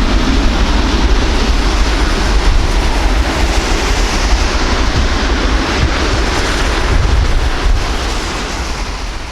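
Jet airliner engine roar, a loud, steady rush with deep rumble, fading away near the end.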